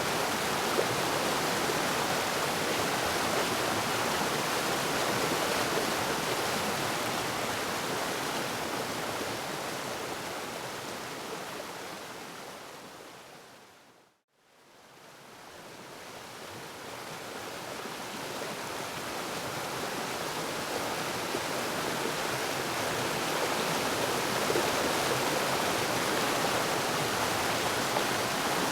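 Steady rush of a waterfall's falling water. About halfway through it fades out to a brief silence, then fades back in.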